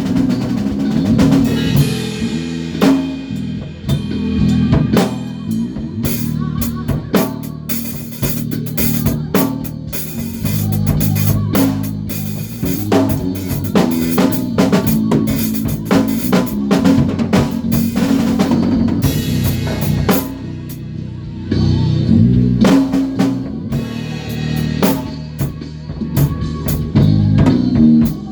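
A band rehearsing: a drum kit playing a steady groove with bass drum, snare and cymbals, under a bass guitar's changing low notes.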